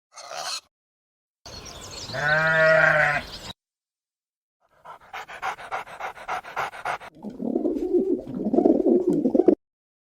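Farm animal calls, one after another. A short call near the start, then a wavering bleat of about two seconds, then a quick pulsing call at about six pulses a second, and finally lower, rougher calls.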